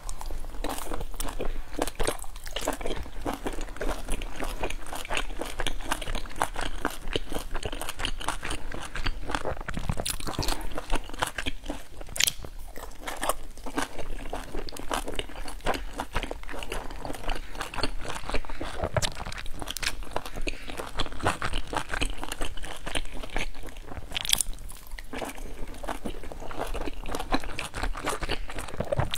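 A person biting into and chewing meat-filled dumplings, a dense run of small mouth clicks and chewing sounds throughout.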